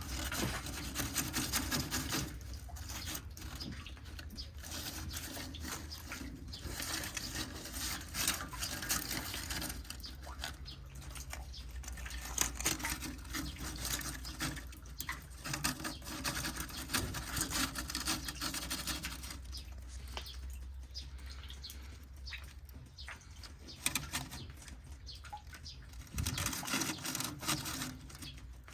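Rain pattering and dripping steadily, with many small irregular taps.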